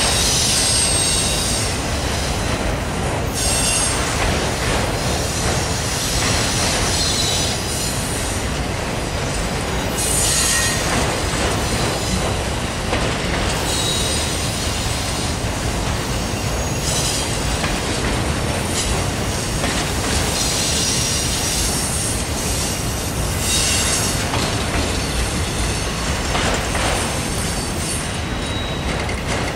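Loaded autorack freight cars of a Norfolk Southern train rolling steadily past, wheels rumbling and clacking on the rails, with a high-pitched wheel squeal that comes and goes.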